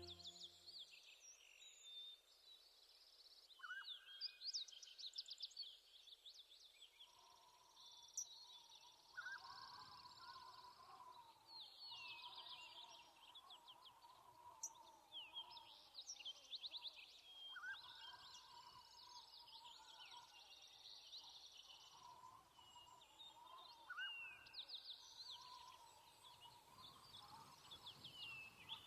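Faint birdsong: short phrases of quick, high chirps repeating every few seconds over a quiet background.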